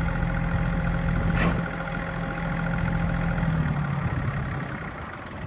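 Bobcat CT1021 sub-compact tractor's diesel engine idling steadily, with a brief hiss about a second and a half in. It then winds down and stops about four and a half seconds in.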